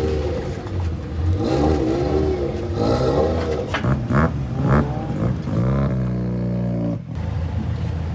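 Car engine being revved, its pitch rising and falling several times, then held at a steady rev before dropping off sharply about seven seconds in.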